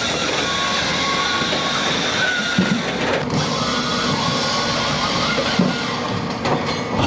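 Hakki Pilke Easy 50 HD firewood processor running, a dense, steady mechanical noise with a brief break about three seconds in.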